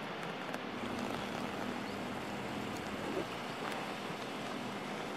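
Steady distant rumble of a passing express train's coaches running away down the track, with a faint low hum underneath.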